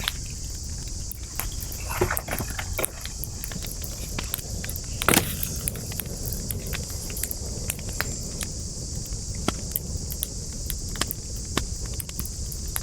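Wood campfire burning, with irregular crackles and sharp pops of the burning logs, one louder pop about five seconds in. A steady high hiss runs underneath.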